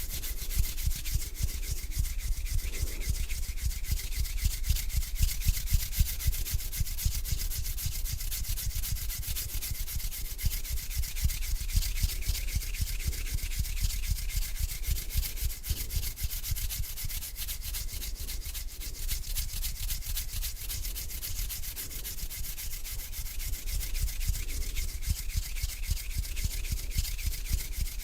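Bare hands rubbing together slowly and continuously close to the microphone, a dry skin-on-skin hiss with fine rapid strokes.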